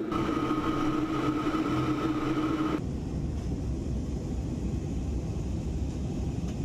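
Jet airliner engines running, with a steady whine over a deep rumble; about three seconds in the whine cuts off abruptly and a broad rumble goes on. The video presents these as the MC-21's Russian PD-14 turbofan engines.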